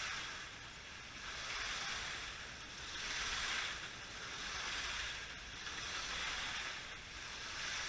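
Electric slot cars running laps on the track, a whirring hiss that swells and fades about every second and a half as the cars come round past the microphone.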